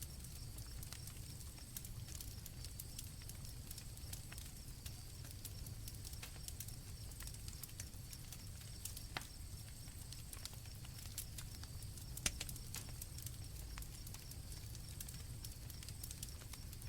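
Campfire crackling with scattered pops, one louder pop about twelve seconds in, over a low steady rumble, with crickets chirping steadily in a high continuous trill.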